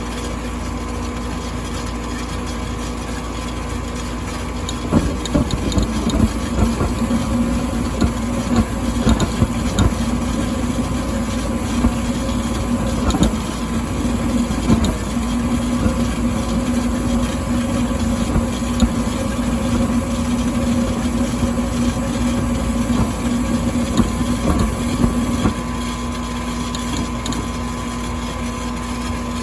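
Furnace running with a steady hum. From about five seconds in until a few seconds before the end, fast, irregular clicking rides over the hum: the click the furnace has as its fault.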